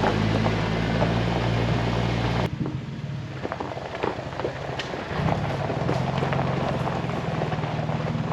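Jeep Wrangler engine running while driving, with tyre and road noise. About two and a half seconds in the engine sound drops away abruptly, leaving quieter road noise with scattered small clicks, and returns more softly a few seconds later.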